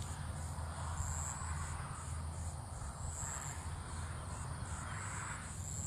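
Insects chirping in a high, even pulsing rhythm, about three pulses a second, over a low rumble of breeze on the microphone.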